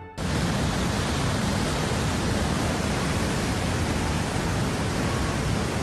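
Torrent of floodwater rushing past: a loud, steady, even rush that cuts in sharply just after the start.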